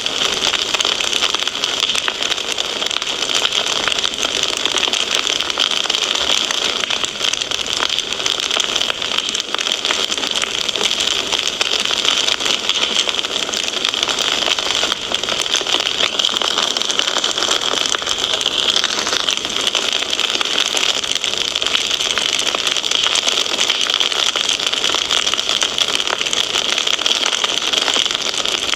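Wood fire crackling in a fireplace: a steady dense stream of small pops and snaps over a constant hiss.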